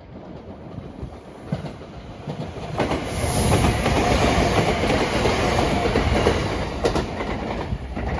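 JR West 227 series 'Urara' electric commuter train passing close by, its wheels clattering over the rail joints. It grows suddenly loud about three seconds in and eases off near the end as it moves away.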